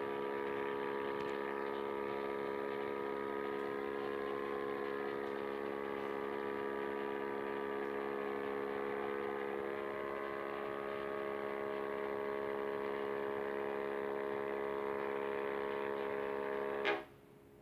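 Unidentified buzzing hum from the upstairs apartment, a steady drone of several even tones that stops suddenly with a click about a second before the end.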